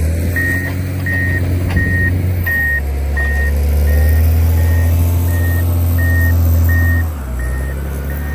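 John Deere 670 GP motor grader's diesel engine running hard while its reversing alarm beeps steadily, about once every 0.7 s, as the machine backs up. The engine eases off about seven seconds in.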